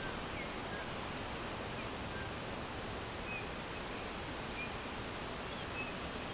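Forest ambience: a steady rushing background noise with sparse, faint, short bird chirps scattered throughout.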